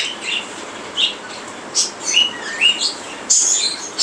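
A mixed flock of caged birds (lovebirds, cockatiels and other small parrots) chirping, with short high chirps one after another and a louder burst of calls a little over three seconds in.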